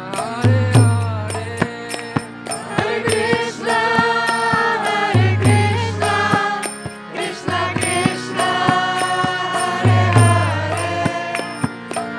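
Group kirtan: voices chanting a devotional mantra over steady held instrument tones. A rhythm of regular metallic strikes runs through it, with deep drum notes about every five seconds.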